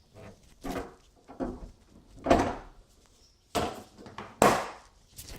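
The hood of a 2005 Toyota Celica GT being closed: a series of about six clunks and knocks, roughly one a second, with the loudest about four and a half seconds in.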